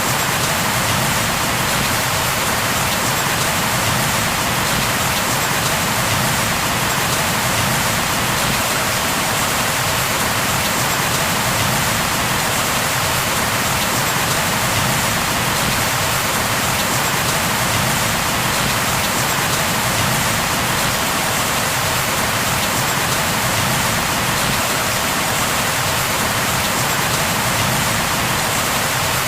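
Steady, even rainfall, rain pattering on a surface with no thunder or other sounds.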